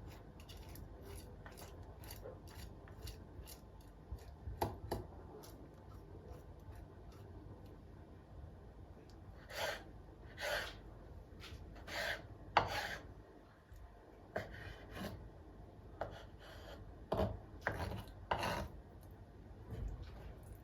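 A run of light clicks, then a series of short scraping and rubbing strokes.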